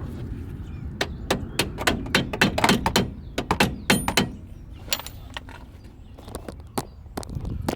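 A quick, irregular run of sharp knocks and clicks, like hard objects or tools being handled, thinning out after about four and a half seconds, over a steady low rumble.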